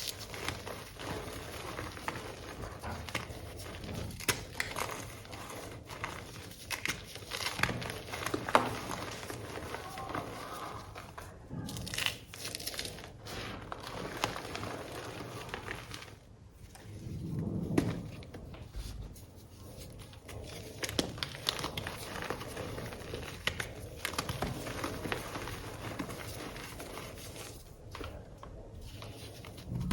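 Reformed gym chalk blocks being crushed, with dense, irregular crunching and crackling as the chalk crumbles, broken by a couple of brief lulls.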